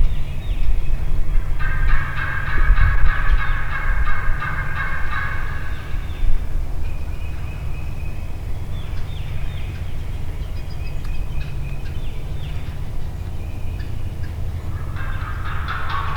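Wild turkey gobbling: a long rattling gobble about two seconds in and another near the end, with fainter calls in between, over a steady low rumble.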